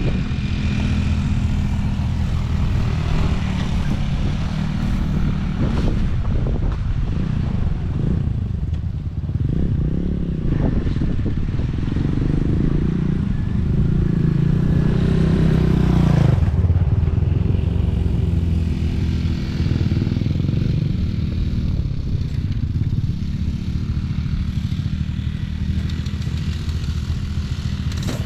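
Small off-road vehicle engine running while under way. It builds in pitch and level for several seconds midway, then drops off about two-thirds of the way through.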